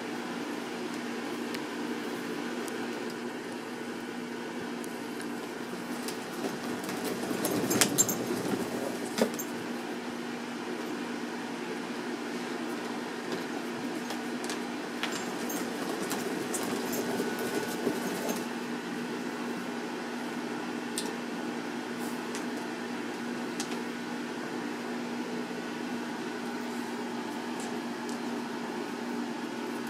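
Cat exercise wheel rolling with a steady low hum. About eight seconds in it rumbles louder, with a few sharp clacks, then settles back to the steady hum.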